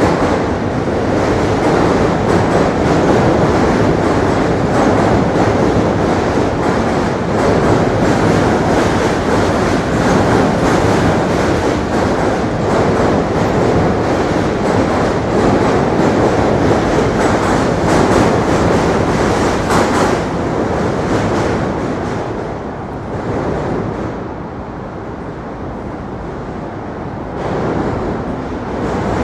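New York City subway train running past on the bridge tracks, a steady, loud clattering of wheels on rail that makes a lot of noise. The noise eases about three-quarters of the way through and picks up again near the end.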